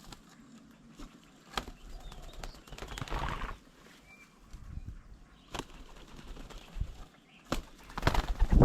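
Birds' wings flapping in short flurries as they land on and take off from a bird table, mixed with sharp knocks. The loudest flurry comes near the end.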